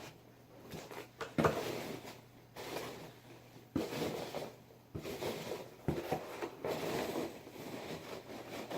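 Hands rummaging through loose packing peanuts in a cardboard box, a rustling, scratching clatter broken by a few sharp knocks.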